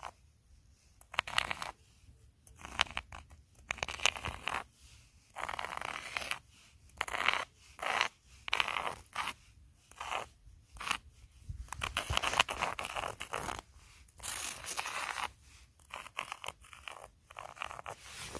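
Footsteps crunching in snow, roughly one step a second.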